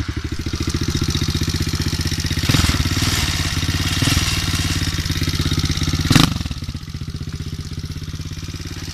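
110 cc four-stroke pit bike engine running just after being started on its electric starter, with throttle blips about two and a half seconds in, again around four seconds, and a sharp one about six seconds in, then settling to a steady idle.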